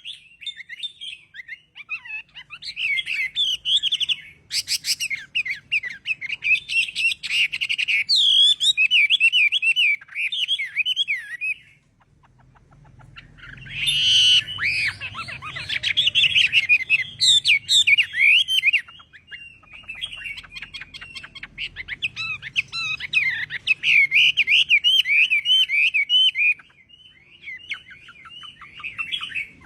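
Chinese hwamei singing a long run of rapid, varied warbling phrases, breaking off briefly about twelve seconds in before starting again.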